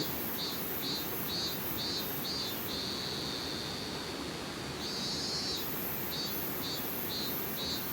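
An insect calls in a repeating phrase: a short trill, a run of high chirps at about two a second, then one long steady note, and the phrase begins again. Under it runs the steady rush of a mountain stream.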